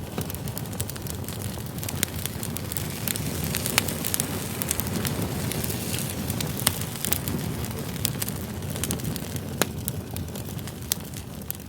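Wood campfire burning: a steady low rush of flames with frequent sharp crackles and pops from the burning logs, a few of them louder.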